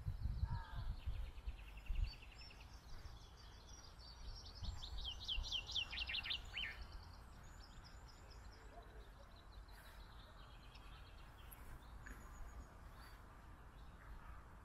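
Small songbirds singing: several rapid trills and fast runs of high notes, the loudest a quick series falling in pitch about halfway through. A low rumble runs underneath, with a few low thuds near the start.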